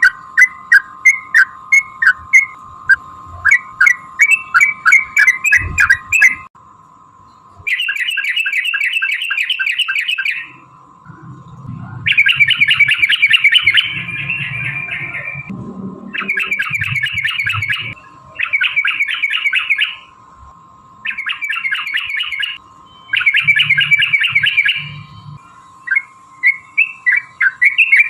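Yellow-vented bulbul (trucukan) calling: first a run of sharp separate notes, about three a second, then rapid chattering bouts ("ropel") of one to three seconds each, broken by short pauses, with short notes again near the end. A steady faint tone runs underneath.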